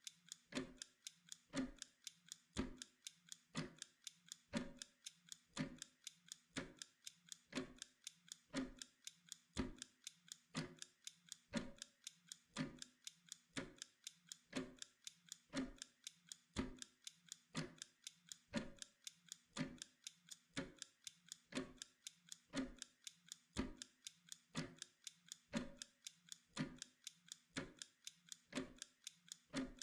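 Mechanical clock ticking steadily, about two ticks a second with a tick-tock alternation of stronger and weaker beats.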